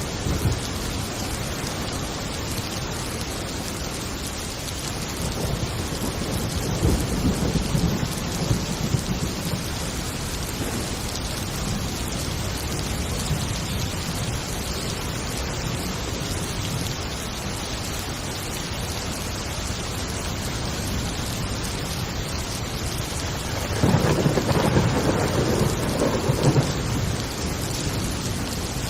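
Heavy rain falling steadily with rolling thunder: a rumble builds about a fifth of the way in, and a louder, sharper thunder roll comes near the end.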